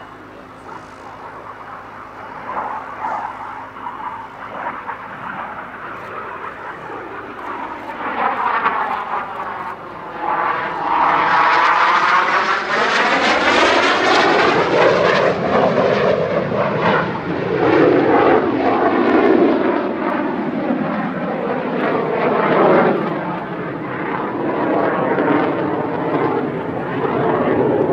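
BAe Hawk Mk 51 jet trainer's Rolls-Royce Turbomeca Adour turbofan in a display pass. The jet noise builds steadily, then swells loudly about eleven seconds in with a sweeping whoosh as the jet passes close. It stays loud as it moves on.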